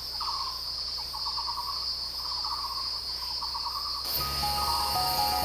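Steady high-pitched insect chorus, with a short pulsing call near 1 kHz repeating roughly once a second. About four seconds in, background music begins: a run of descending notes over a low bass.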